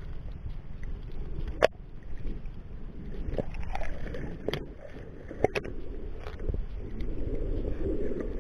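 Outdoor water-and-wind rumble picked up on an action camera's microphone, with a few sharp knocks, the loudest about a second and a half, four and a half and five and a half seconds in.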